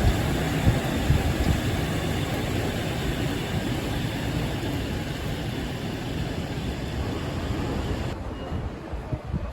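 Shonan Monorail 5000-series suspended monorail train running past, its rubber-tyred running gear making a steady rushing noise that slowly fades, with the higher part of the sound dropping away about eight seconds in as the train moves off.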